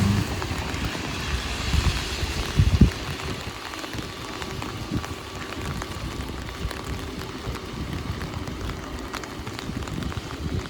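Heavy rain pattering steadily on an umbrella overhead, with many small drop ticks. A passing car's hiss on the wet road fades away in the first second, and there is a brief low thump a little under three seconds in.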